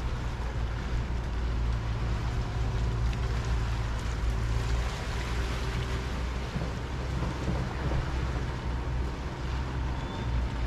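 Steady wash of sea water along the harbor shore, with a continuous low rumble underneath.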